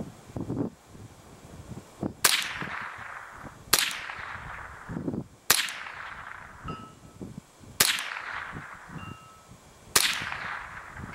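Five shots from a semi-automatic Ruger 10/22 .22 LR rifle, fired one at a time about one and a half to two seconds apart, each trailed by a fading hiss. A faint, brief ring follows about a second after some shots: the distant steel gong being hit. Wind rumbles on the microphone between shots.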